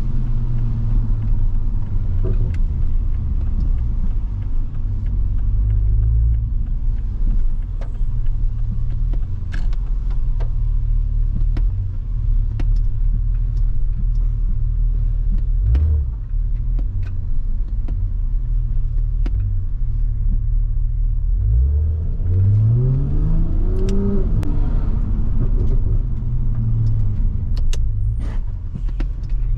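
Toyota Supra MK5 with a turbocharged inline-six, driving with a steady low engine rumble. About 22 seconds in, the revs climb for about two seconds as it accelerates, then drop away.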